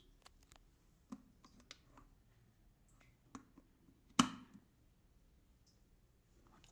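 Light clicks and taps from handling a stainless steel electric kettle, with one sharp knock and a brief ring about four seconds in.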